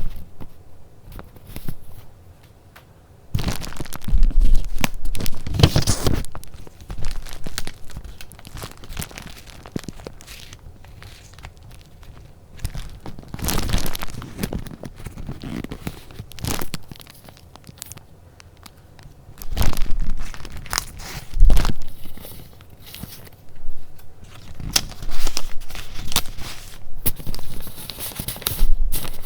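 Paper being handled close to the microphone: rustling, crinkling and tearing of paper and packaging in irregular bursts, with quieter stretches between.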